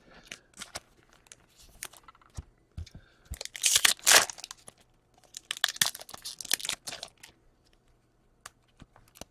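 Crinkling and tearing of a foil trading-card pack wrapper, in irregular rustling bursts with two louder spells in the middle, as the pack is ripped open and the cards are handled.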